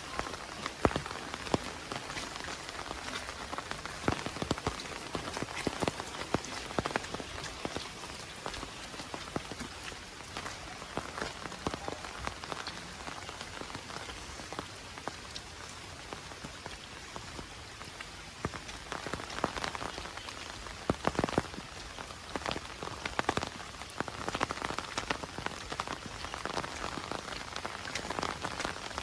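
Heavy rain falling steadily, with a constant hiss and many sharp, close drop impacts scattered through it.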